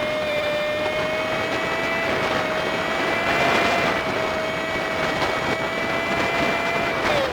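Honda Super Cub 50's small single-cylinder engine running under way with wind and road noise, the footage sped up fivefold so the engine note is a high, steady whine. The pitch creeps up, then drops sharply near the end as the throttle closes.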